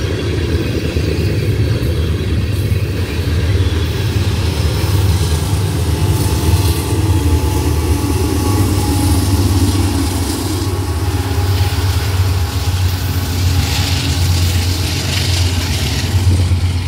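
Loaded tank cars rolling past on the rails, then the rear distributed-power locomotive, a Canadian Pacific GE AC4400CW diesel, going by about halfway through. A steady low engine drone runs under it all.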